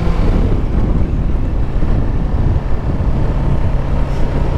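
Kawasaki Ninja 650's parallel-twin engine running steadily while riding, with wind noise over the microphone.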